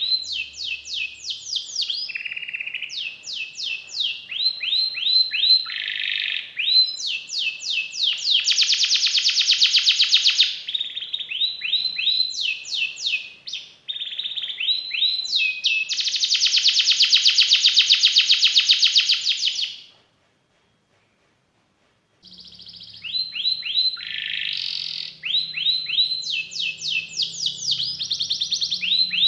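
Domestic canary singing a long, varied song: runs of quick downward-sweeping notes alternating with long, fast rolling trills. The song breaks off into silence for about two seconds near two-thirds of the way through, then resumes.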